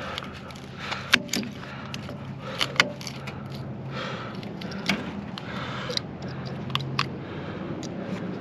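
Metal clinking and scraping as parts of a microwave oven transformer are handled and checked, with about half a dozen sharp clicks over a low steady hum.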